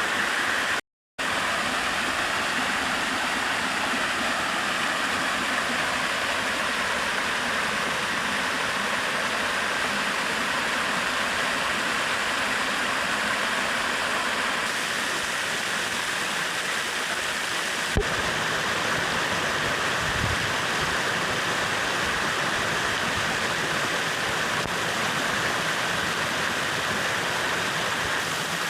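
Stream and small waterfall running steadily, a constant rushing of water. The sound cuts out for a moment about a second in, and there is a single sharp click later on.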